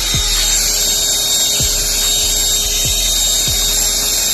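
Vacuum cleaner running steadily: a constant rushing hiss with a steady whine over it.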